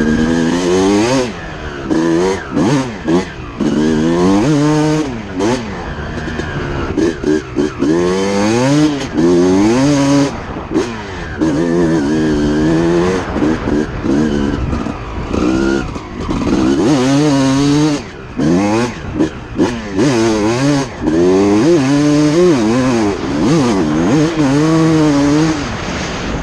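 Motocross dirt bike engines revving on the track, rising and falling in pitch over and over as the bikes go through gears and corners.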